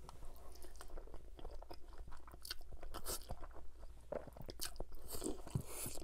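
Close-miked mouth sounds of eating spaghetti bolognese: wet chewing with many small clicks, and a slurp of a noodle strand near the end.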